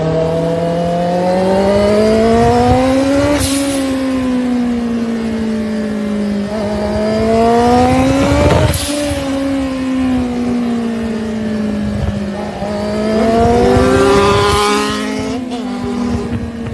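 Motorcycle engine running hard, its pitch climbing and falling with the revs. Three sharp cracks come about three and a half, nine and fourteen and a half seconds in.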